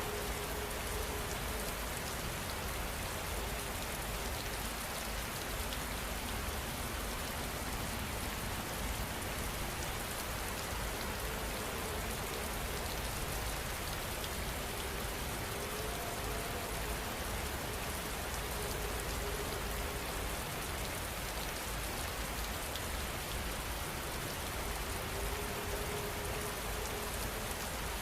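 Rain falling steadily, an even unbroken hiss of drops on surfaces.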